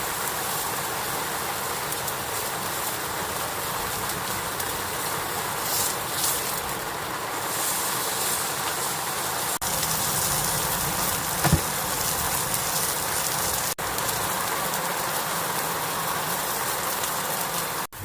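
Heavy rain falling steadily, a dense even hiss, with a short low thump about two-thirds of the way through.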